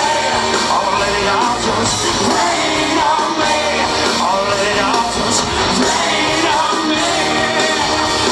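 Live rock band playing a song, with singing over guitars and drums.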